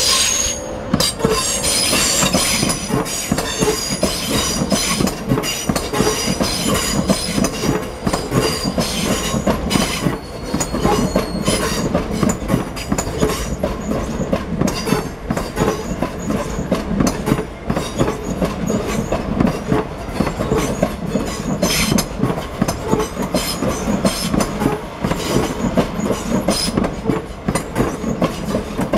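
Southern Class 377 Electrostar electric multiple unit passing at speed, its wheels clattering in a dense rhythm over the rail joints throughout. A high wheel squeal rings over the clatter for about the first ten seconds.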